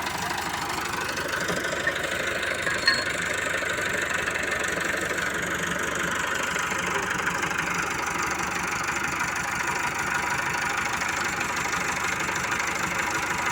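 Al-Ghazi 65 hp tractor's diesel engine running steadily, with a single sharp click about three seconds in.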